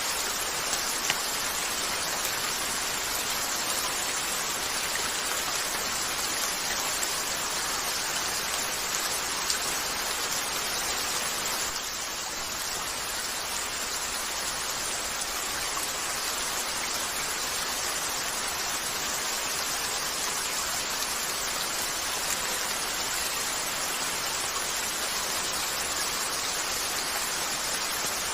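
Steady rain falling against a window, an even hiss, with a couple of faint sharp pops from a crackling wood fire.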